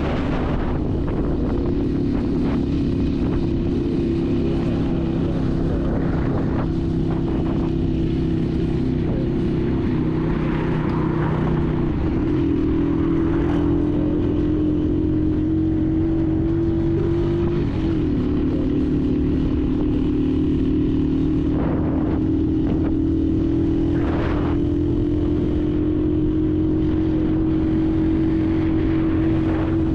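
Honda 125 motorcycle's single-cylinder four-stroke engine running under way, a steady note whose pitch dips twice near the middle and climbs back.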